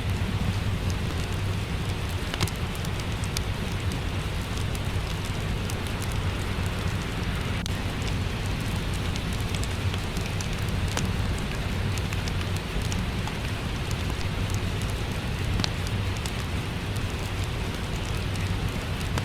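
Steady rain, with a wood fireplace crackling in scattered sharp pops and snaps over a low rumble.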